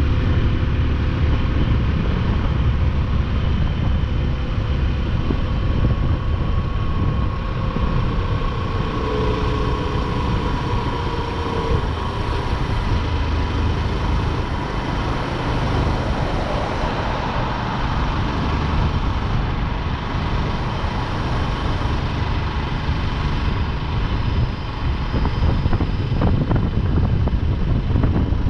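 Motorcycle running steadily at road speed, heard from the rider's seat, with a continuous heavy rumble.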